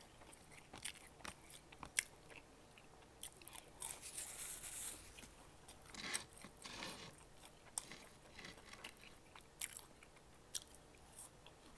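Quiet chewing of McDonald's french fries, with scattered small crunches and mouth clicks.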